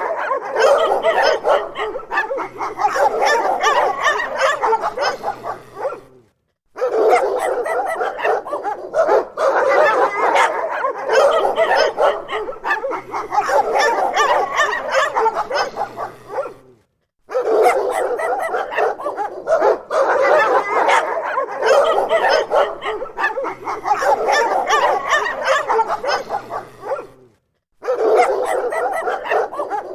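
Several dogs barking angrily and without pause, with bark overlapping bark. The sound drops to silence for a moment about every ten seconds, three times, as the recording repeats.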